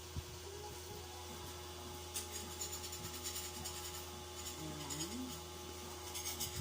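Quick scratchy rubbing strokes, several a second, beginning about two seconds in, as a sticker is pressed and smoothed onto a cellphone by hand. A steady low hum runs underneath.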